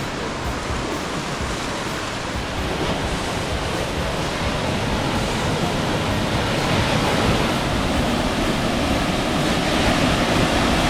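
Steady rush of falling water from Bridal Veil Falls, growing louder toward the end.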